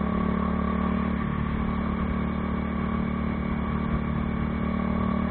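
Bajaj Dominar 400 motorcycle's single-cylinder engine running through an aftermarket Akrapovič exhaust, holding a steady engine speed with no revving.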